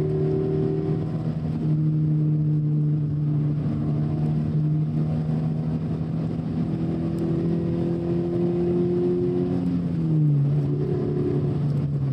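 2016 Scion FR-S's 2.0-litre flat-four engine heard from inside the cabin while driving, a steady droning note over road noise. The note drops in pitch about ten seconds in.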